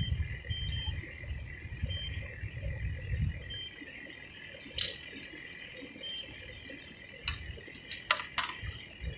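A steady, high-pitched chorus of calling animals with short repeated chirps, over a low rumble that dies down after a few seconds. A few sharp clicks sound in the second half.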